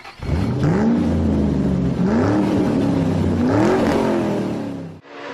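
Rally car engine accelerating hard, its pitch climbing three times with short drops between, as it goes up through the gears. The sound cuts off suddenly near the end.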